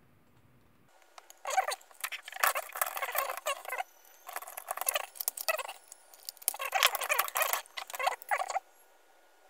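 Irregular scratching, scraping and small clicks of hard plastic blaster parts being handled and worked by hand, in bursts lasting several seconds.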